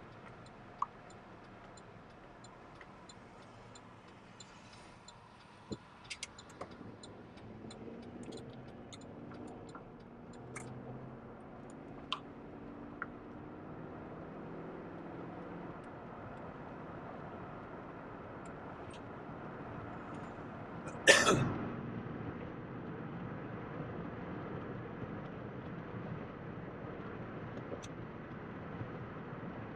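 Vehicle interior while driving: steady road and engine noise, with the engine note rising and shifting for several seconds in the first half. A few light clicks and rattles, and one loud sharp knock about two-thirds of the way through.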